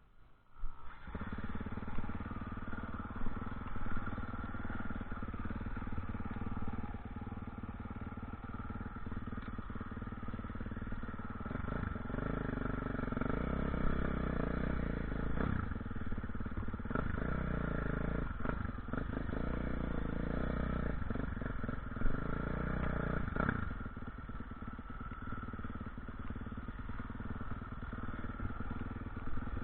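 Motocross motorcycle engine running and revving, its pitch shifting up and down, louder for a stretch in the middle.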